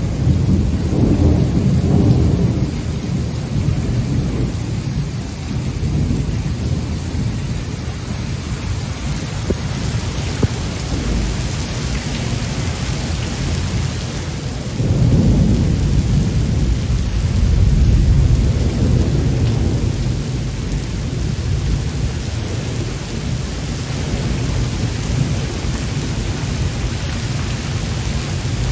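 Heavy rain pouring steadily, with deep rolling thunder swelling near the start and again about halfway through.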